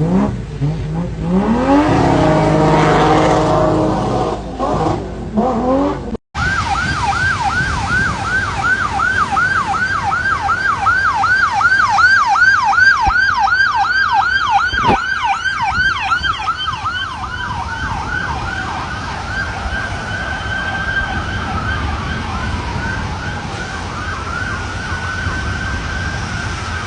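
A vehicle engine revving, then after a cut an emergency vehicle siren: a fast yelp of about three to four rising-and-falling sweeps a second that slows about two-thirds of the way through into long wailing glides.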